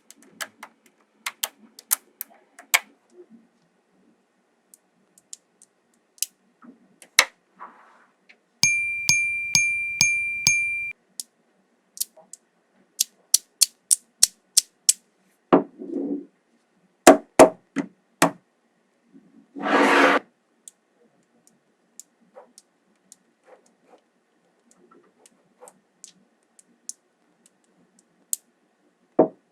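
Small magnetic balls clicking as they snap together, in sharp, irregular clicks. About nine seconds in, a pulsing electronic beep sounds for about two seconds. Two short hissing noises come later.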